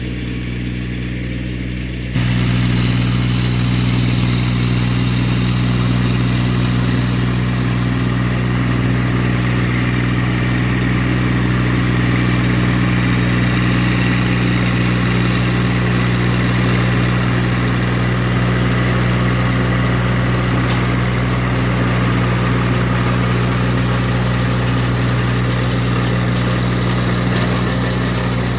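Massey Ferguson GC1710 sub-compact tractor's three-cylinder diesel running steadily with a Woods RTR 48.30 reverse tiller churning the ground. About two seconds in, the sound jumps abruptly louder and rougher, and stays that way.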